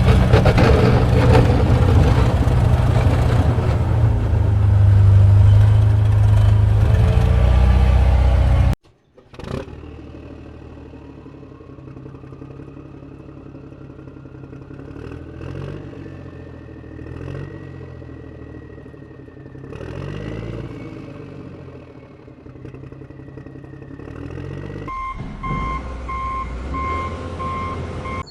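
A loud vehicle engine runs, then cuts off suddenly about a third of the way through. A much quieter engine hum with a faint whine follows, and a series of short, evenly spaced beeps sounds near the end.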